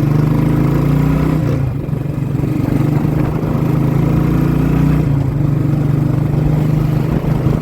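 Royal Enfield Bullet 350's single-cylinder engine running under way through a loud modified exhaust, easing off briefly about two seconds in and then pulling steadily again.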